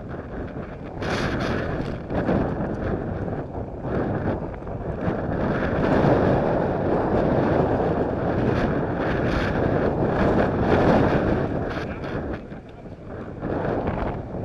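Wind buffeting the microphone: a gusting rumble that swells through the middle and eases near the end.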